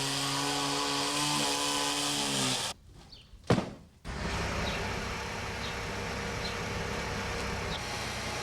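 A motor-driven tool running at a steady pitch that dips slightly now and then, cutting off suddenly about two and a half seconds in. A single sharp knock follows, then a steady, low, noisy machinery rumble with a few faint ticks.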